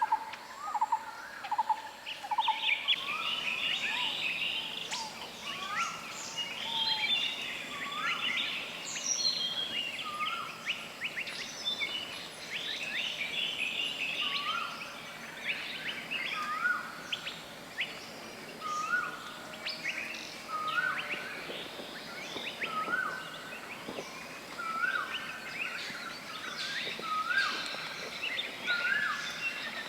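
A chorus of wild birds: one bird repeats a short rising whistle about every two seconds over dense, higher chirps and trills from others. Near the start a quick run of lower notes, about three a second, comes before the whistles begin.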